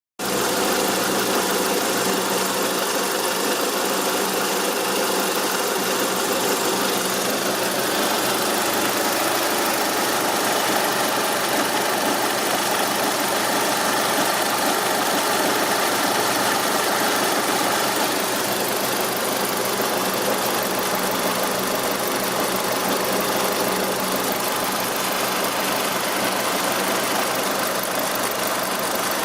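Mitsubishi Lancer's 4G63 inline-four engine idling steadily, with a strange noise that occurs only at idle since the timing belt was replaced; the owner puts it down to the timing belt.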